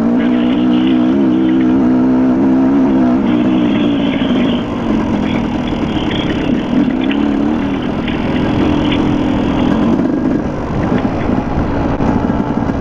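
Dirt bike engine running under load, its pitch rising and falling as the throttle changes, with a shift in engine note about two-thirds of the way through.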